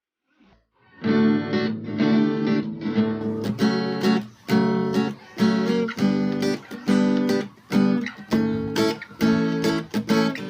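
Acoustic guitar strummed in chords, starting about a second in and going on in a steady rhythm of strokes.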